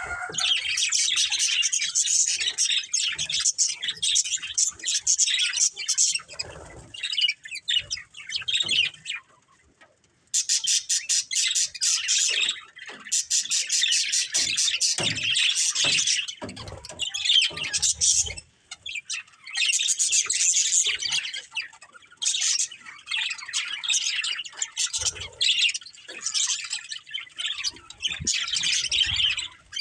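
Budgerigars chirping and chattering in a near-continuous quick, high warble. It breaks off into silence for about a second around ten seconds in, then resumes with a rapid clicking chatter.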